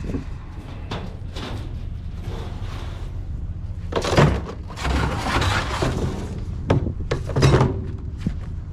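Scrap metal pieces being thrown and dropped onto a pile: a string of separate clanks and thuds, a few of them loud, over a steady low rumble.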